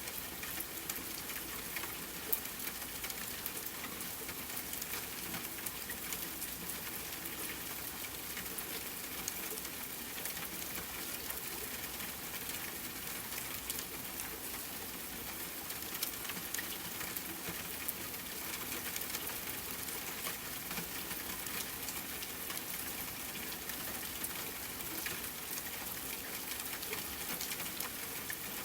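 Steady rain falling with many small, sharp drop ticks scattered through it, mixed with the crackle of a campfire.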